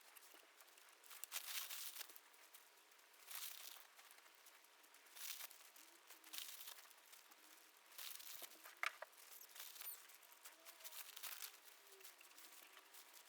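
Faint rustling and crinkling of material being handled, in short irregular bursts every second or two.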